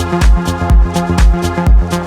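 Progressive house music: a four-on-the-floor kick drum about twice a second with hi-hats between, under a deep bassline and sustained synth chords from a MAYER EMI Vibes synthesizer.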